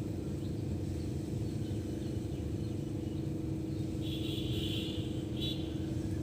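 Small birds chirping over a steady low rumble and hum. Faint scattered chirps give way to a louder chirping call lasting about a second, four seconds in, and a short one soon after.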